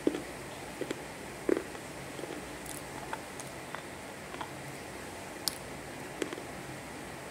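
Close-miked mouth sounds of a person chewing and swallowing something dry and crunchy: scattered short crunches and clicks, the loudest near the start and about a second and a half in, over a steady hiss.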